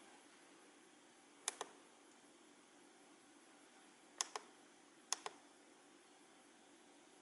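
Three sharp double clicks, each a quick pair, about a second and a half in, past four seconds and past five seconds, over faint steady hiss.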